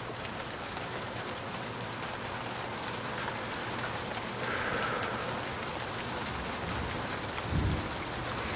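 Steady rain falling during a thunderstorm, with a brief low thump near the end.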